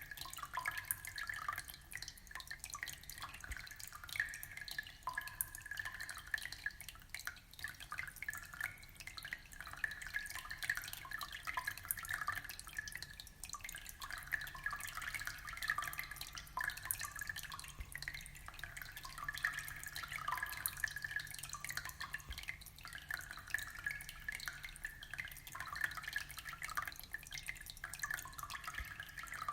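Aquarium water trickling and dripping: a continuous, even patter of small splashes.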